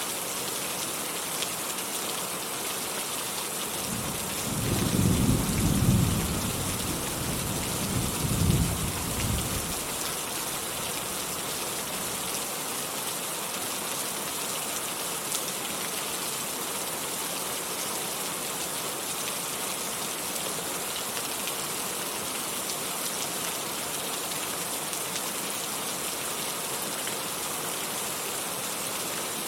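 Steady heavy rain hiss, with a roll of thunder rumbling about four seconds in, peaking twice and fading out by about ten seconds.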